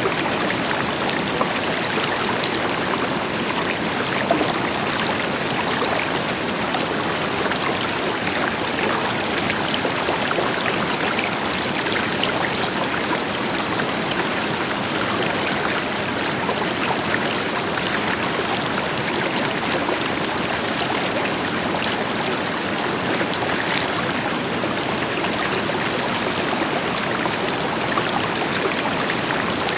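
River water flowing steadily over rocks, a continuous rushing with small splashes and trickles, with the deeper rush of a distant waterfall beneath it.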